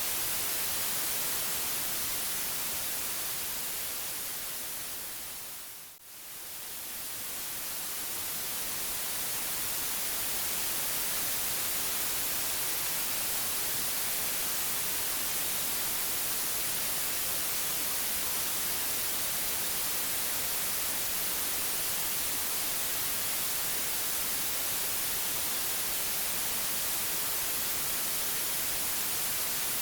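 Steady white noise, an even hiss weighted toward the high end. About six seconds in it fades down to a brief near-silent dip, then swells back up to full level over the next few seconds.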